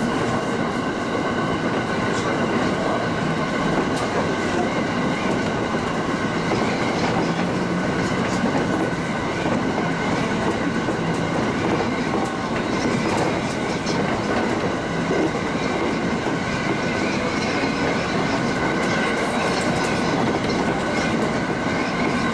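Local train running at speed, heard from inside the front car: a steady rumble of wheels on rails, with a steady high whine of several tones and scattered rail-joint clicks.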